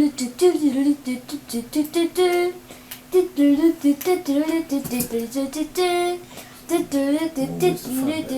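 A woman humming a made-up tune in short rising and falling notes, with light clicks scattered through it.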